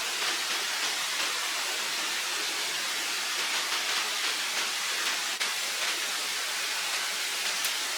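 Running water rushing steadily, with a single sharp click about five and a half seconds in.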